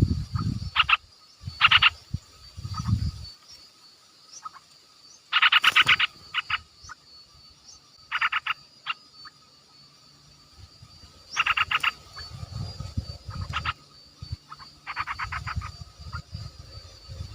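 Short rattling animal calls, each a quick run of clicks lasting under a second, repeated in about eight bursts at uneven intervals. Faint steady insect-like tones sit behind them, and low rumbling noise comes and goes.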